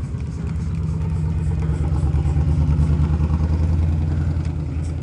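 A motor vehicle's engine running nearby, a steady low rumble that swells to its loudest about halfway through and then eases off.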